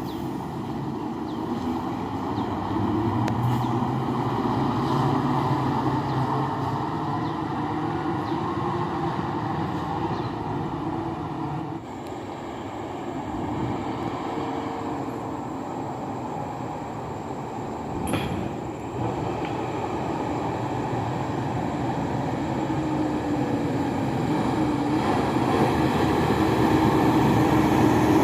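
Loaded dump truck's diesel engine labouring up a steep hill, a steady heavy drone that grows louder toward the end as the truck draws near.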